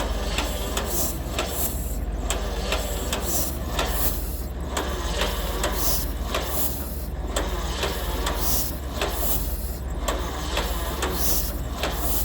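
John Deere A's two-cylinder engine being cranked over by its starter, chuffing about three times a second without firing: the flooded engine won't catch.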